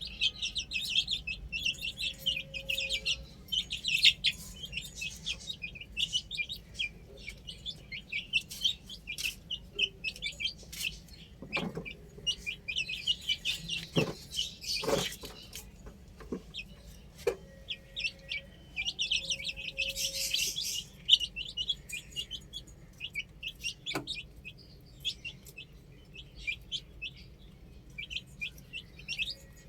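Baby chicks peeping continuously in rapid, high-pitched chirps, with a few sharp knocks around the middle.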